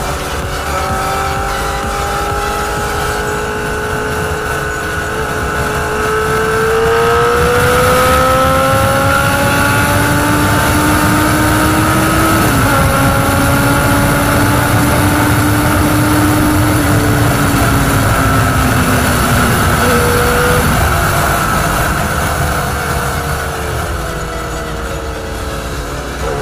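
Honda CBR1000RR Fireblade's inline-four engine pulling along at highway speed, its note rising slowly through the first half, shifting about halfway, easing off later and rising again near the end, with wind rushing past the camera.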